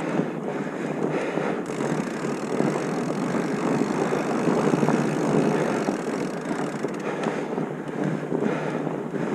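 Steady wind rushing over the microphone, a continuous noisy roar that swells a little around the middle.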